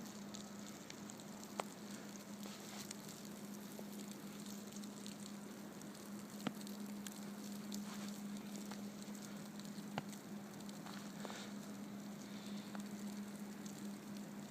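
Steady hiss of blizzard wind and blowing snow on the microphone, over a constant low hum. A few sharp clicks stand out, the loudest about 1.5, 6.5 and 10 seconds in.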